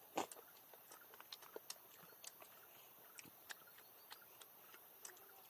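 Faint, irregular small clicks and pops, with one louder snap just after the start.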